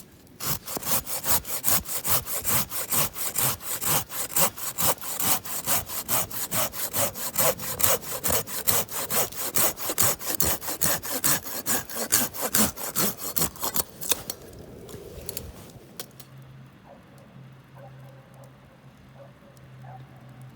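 Hand saw cutting firewood in quick, even back-and-forth strokes, about three a second, stopping about fourteen seconds in.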